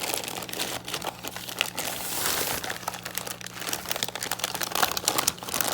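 Packaging crinkling and rustling as a heavy model train piece is unwrapped by hand: many small irregular crackles, with a louder rustle about two seconds in.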